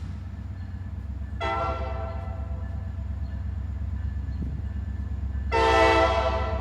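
Norfolk Southern diesel freight locomotive rumbling low and steady while its air horn sounds a short blast about a second and a half in, then a louder, longer blast that starts near the end.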